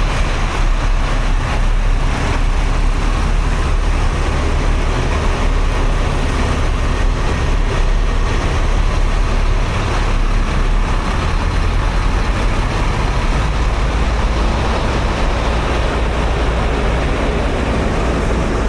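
Steady road traffic noise, with vehicles running by and a heavy low rumble.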